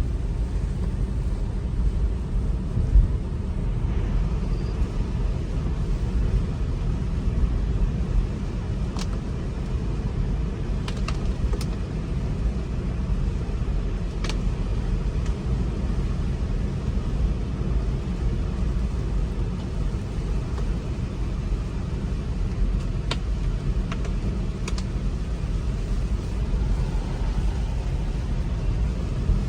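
Steady low rumble of tyre and road noise from an electric Tesla Model 3 driving on wet, snowy roads, heard from inside the car, with a few faint ticks now and then.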